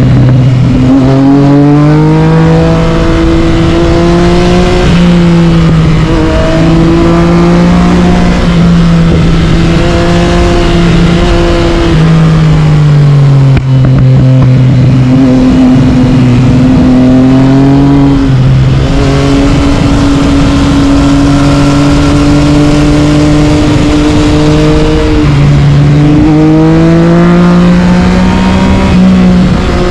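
Yamaha MT-09's inline-three engine through an Akrapovic carbon exhaust, ridden under load. The engine note holds steady for stretches, climbs as the throttle opens, and drops back several times at gear changes or when the throttle closes.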